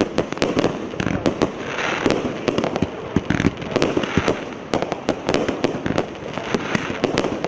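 A 19-shot, 0.8-inch consumer firework cake going off: sharp bangs at uneven spacing, about three a second, over a steady hiss and crackle.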